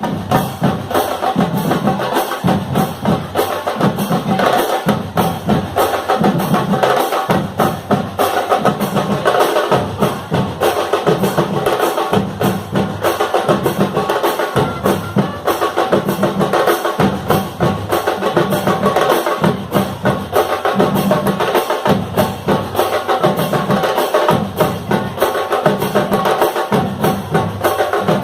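Marching fanfare band playing a tune: bass drum and snare percussion keep a steady, even beat under the band's melody.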